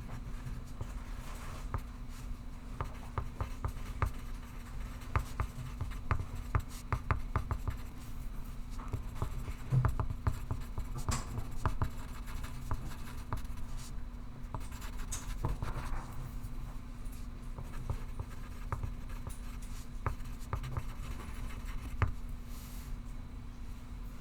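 Pencil writing on paper: irregular short scratching strokes and light taps, with a steady low hum underneath.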